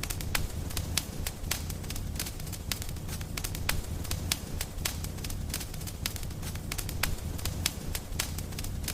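Wood fire in a fireplace crackling, with many sharp, irregular pops several times a second over a steady low rumble.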